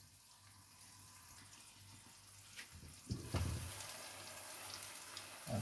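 Sliced onions frying in a wok, the sizzle faint under a glass lid. About three seconds in, a knock as the lid is lifted off, and the sizzle then comes through louder and steady.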